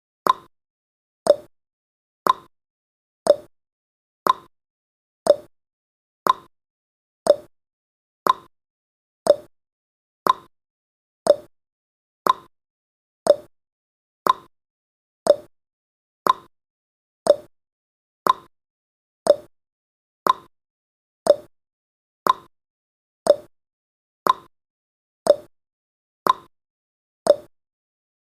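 A countdown timer's click sound effect, one short sharp click each second at a steady pace.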